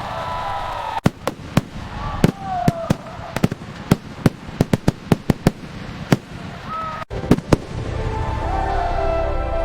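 Aerial fireworks going off in a fast, irregular string of sharp bangs, several close together at times, with short falling whistle-like tones among them.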